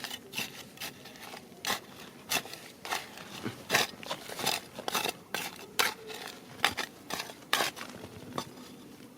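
Irregular sharp clinks and taps of hard objects knocking together, about two or three a second.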